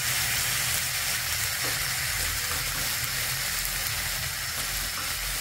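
Onion–mustard masala paste and freshly added tomato puree sizzling in oil in a wok: a steady frying hiss over a low steady hum.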